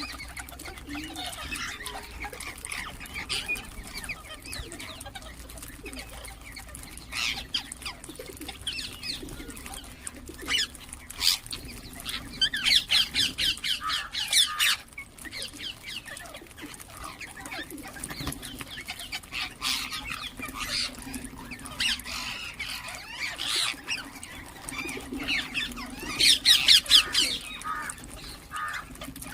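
Ringneck parrots calling and chattering: scattered short squawks, and twice, about halfway through and again near the end, a loud run of rapid repeated screeches. A faint low steady hum lies underneath.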